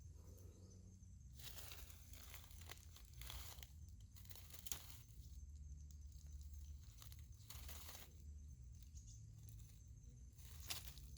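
Faint, irregular rustling and crinkling noises in short bursts, over a thin, steady high-pitched tone.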